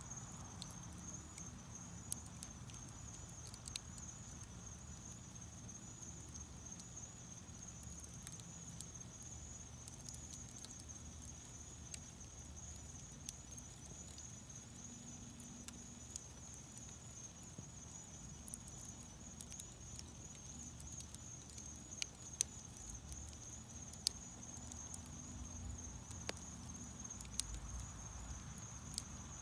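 Wood fire in a fireplace crackling, with scattered sharp pops, a few of them louder, over a low rush of flames.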